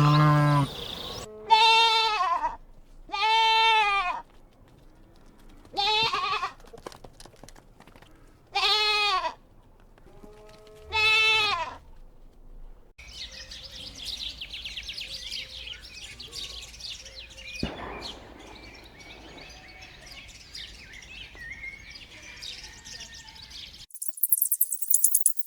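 A bleating goat or sheep calls five times, each call about a second long, high and wavering, a few seconds apart. After that there is only a faint background hiss, until a bright jingling rattle starts near the end.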